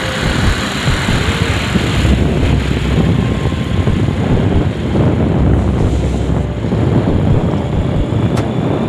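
Steady rushing noise with uneven low rumbling gusts: wind buffeting the microphone.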